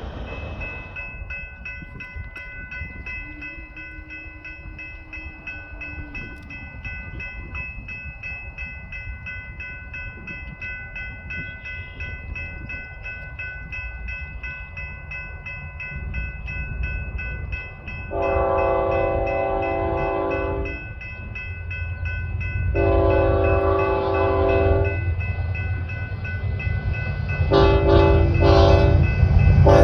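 A grade-crossing bell rings with a steady rapid beat while a locomotive approaches, its rumble growing louder. The locomotive horn sounds two long blasts, a short one, and the start of another: the long-long-short-long grade-crossing signal.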